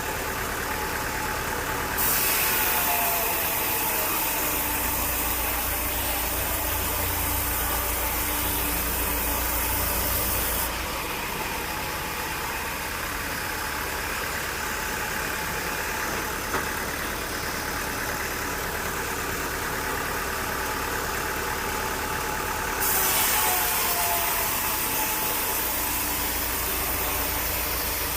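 Sawmill engine running steadily. A harsh high hiss comes in abruptly about two seconds in, drops out near the ten-second mark, and returns about twenty-three seconds in.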